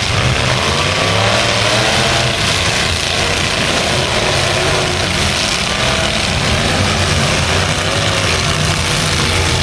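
Full-size pickup truck engines running loud in a demolition derby, several engine notes overlapping and rising and falling in pitch as the drivers rev.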